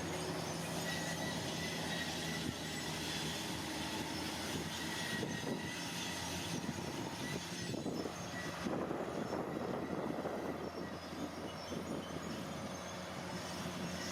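Heavy diesel earth-moving machinery running steadily, with a constant engine hum and a thin high whine, and rougher grinding and rattling for a few seconds past the middle.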